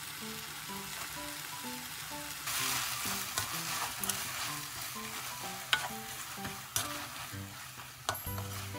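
Kimchi sizzling as it is stir-fried in a nonstick frying pan, the sizzle growing louder about two and a half seconds in, with a few sharp knocks of the stirring spoon against the pan. Soft background music with a simple melody plays underneath.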